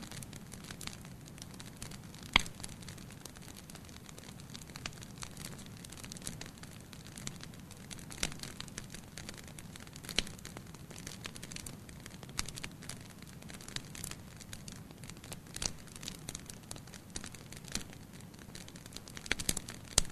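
Wood fire burning in a fireplace, a steady low rumble of flames with irregular crackles and pops, the sharpest pop about two seconds in and a quick run of pops near the end.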